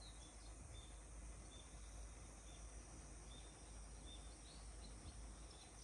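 Faint outdoor ambience with a distant bird giving short, high chirps about once a second.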